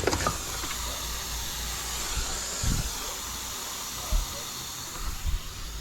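Compressed air hissing steadily, swelling in the middle, with a few light knocks of parts being handled.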